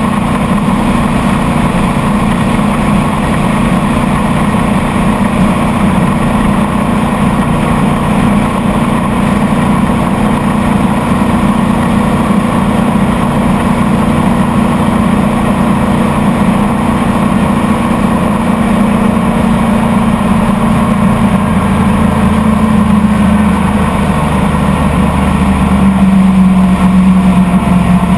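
Motorboat engine running steadily under way, with rushing wind and water noise; near the end its note shifts and gets louder.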